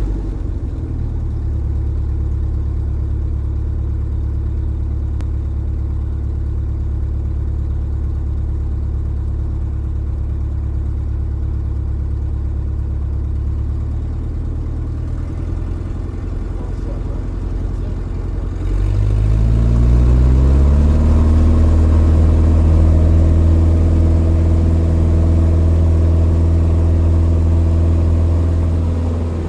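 Legend Cub's piston engine running steadily at low power, then the throttle is opened for takeoff: about two-thirds of the way through, the engine note climbs quickly and settles into a louder, steady full-power drone.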